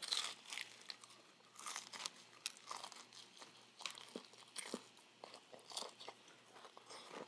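Crunching and chewing of crispy breaded fried chicken (Jollibee Chickenjoy): a bite right at the start, then irregular crisp crunches while the pieces of skin are chewed.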